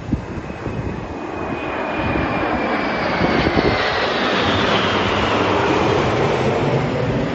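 Kawasaki T-4 jets of the Blue Impulse team flying past with twin turbofans: a jet noise that swells over the first two seconds and then holds loud, with a high whine that falls in pitch as they pass.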